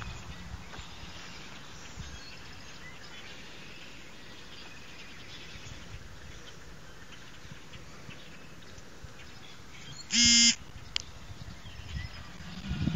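Faint outdoor ambience with small birds chirping. About ten seconds in, a short loud electronic tone sounds once: an incoming text-message alert on a phone. A low steady hum starts near the end.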